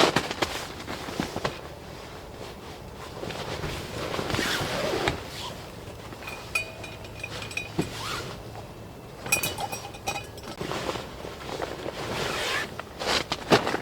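Camping gear being handled during setup: rustling with scattered sharp clicks and light clinks.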